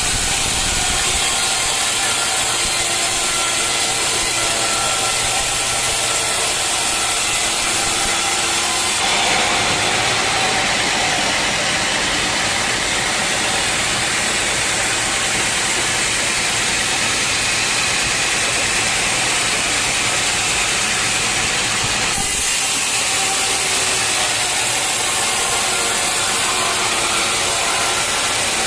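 Sawmill saw running steadily while sawing teak logs. From about nine seconds in until about twenty-two seconds it turns to a harsher, brighter hiss, then settles back.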